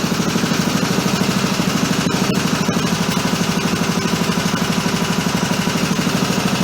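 Minibike's small single-cylinder engine running steadily at a fast idle with an even, rapid pulse.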